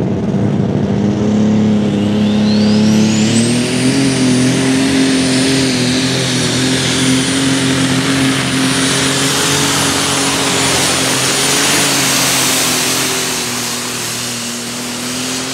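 Light super stock pulling tractor's engine run hard under load, its pitch rising a little about three seconds in and then holding steady, with a high turbocharger whine that climbs and stays high through most of the run before the sound eases off near the end.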